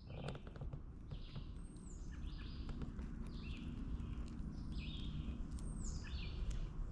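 A songbird singing a short high phrase over and over, about once a second, over a steady low outdoor rumble, with a few faint clicks near the start.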